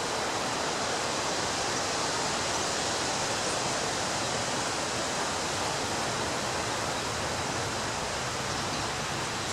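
Ocean surf washing onto a beach: a steady, even rush of water noise with no distinct breaks between waves.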